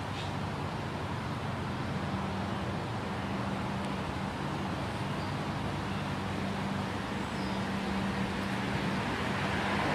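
Steady outdoor background noise, an even rumble and hiss with a constant low hum, slowly growing louder near the end.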